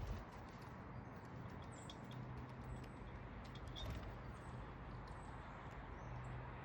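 Outdoor backyard ambience: a steady hiss with a low hum that comes and goes, a few short, faint high bird chirps, and scattered light taps and clicks.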